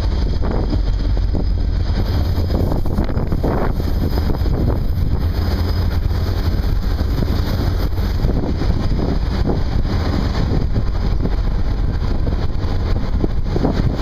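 Heavy wind buffeting the microphone over a steady low rumble from a passing vehicle, with no change through the stretch.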